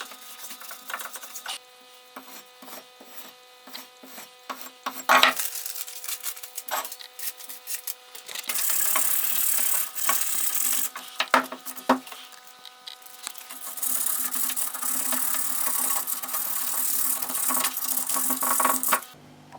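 Wood being scraped and rubbed by hand, with scattered knocks, then two long stretches of steady rasping strokes, over a faint steady hum.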